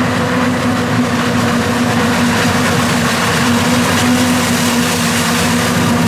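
Heavy diesel engine of large farm machinery running steadily at constant speed, with a strong hiss of noise over its drone.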